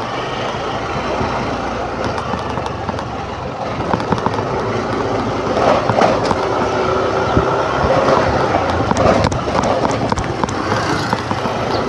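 Motor scooter being ridden: steady engine and road noise, with frequent rattling knocks from about four seconds in.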